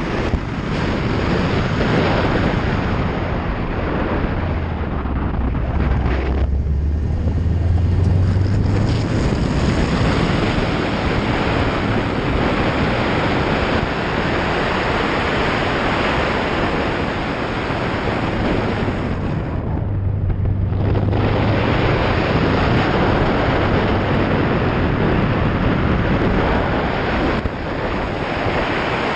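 Subaru WRX's turbocharged flat-four driven hard through an autocross course, its engine noise mixed with a steady rush of wind noise. The sound eases off briefly twice, about six seconds in and again around twenty seconds.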